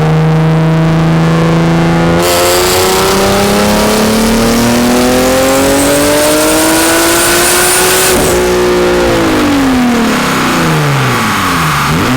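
Turbocharged Nissan 370Z V6 making a full-throttle dyno pull. The engine holds a steady note, then about two seconds in it goes hard on the throttle and the revs climb steadily for some six seconds, with a thin high whistle rising alongside. About eight seconds in it lifts off and the revs fall away.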